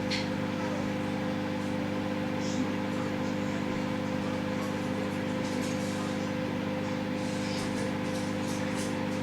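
Microwave oven running on full power, a steady hum.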